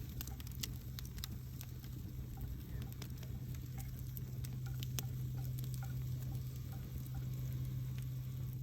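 Wood campfire crackling, with scattered sharp pops and snaps at irregular moments over a steady low hum.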